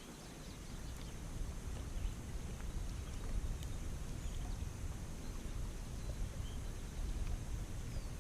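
Outdoor ambience: a steady low wind rumble on the microphone, with a few faint short bird chirps and light knocks.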